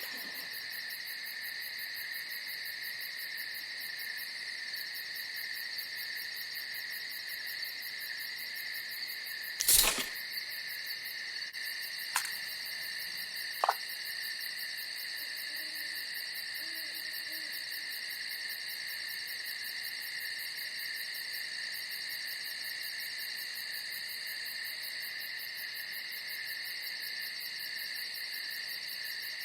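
Night insects, crickets, trilling steadily and without a break. A single loud knock about ten seconds in, then two short sharp clicks a few seconds later.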